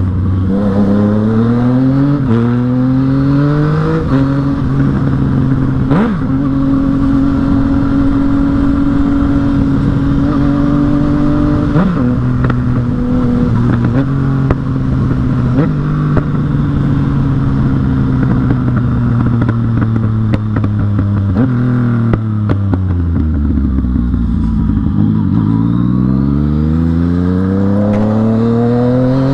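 Yamaha MT-09's inline three-cylinder engine under way: it revs up through the gears, then runs at a steady cruise. About three-quarters through, the revs drop away as the bike slows, then climb again near the end.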